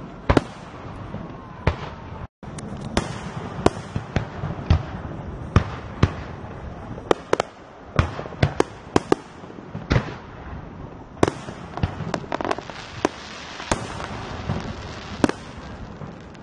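Aerial fireworks display: shells bursting in rapid, irregular succession, dozens of sharp bangs over a continuous backdrop of more distant bursts. The sound drops out for an instant about two seconds in.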